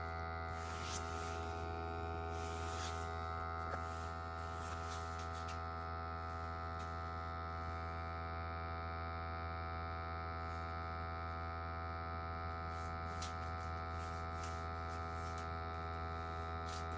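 Steady buzzing hum from equipment at a gas boiler, low-pitched with many overtones, unchanging throughout.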